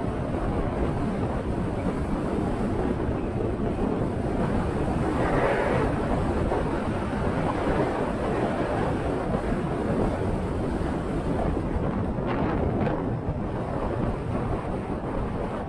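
Wind buffeting the microphone of a camera on a moving motorcycle: a steady, dense low rumble of rushing air that buries the engine.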